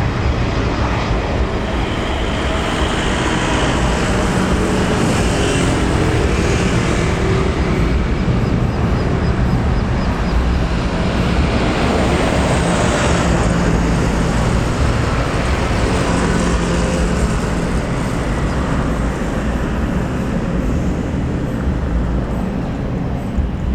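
Jet airliner's engines running as it passes close by, a steady loud roar with a faint falling whine in the middle.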